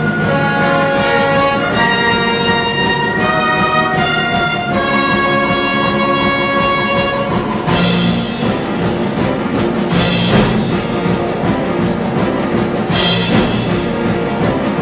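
A symphony orchestra with brass, strings and timpani playing sustained chords, then three loud accented full-orchestra strikes with cymbal crashes in the second half.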